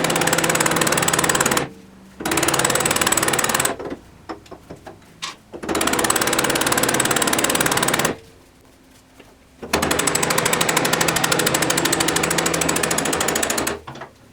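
Power impact tool hammering rapidly in four bursts: the first two last about a second and a half each, the third about two and a half seconds, and the last about four seconds.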